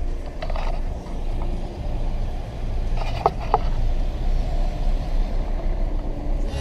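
Steady low rumble of a vehicle driving, with two brief pitched sounds about three seconds in.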